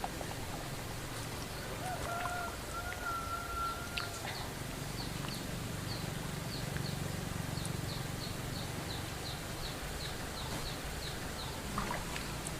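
Birds calling outdoors: a held call lasting about two seconds, then a run of short, high chirps repeated about twice a second, over a steady low background rumble.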